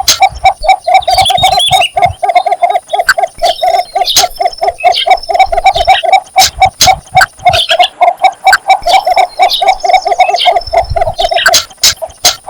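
Cinnamon bittern giving its breeding call to attract a mate: a long, rapid run of low clucking notes with a short break near the end. Higher chirps from other small birds sound over it.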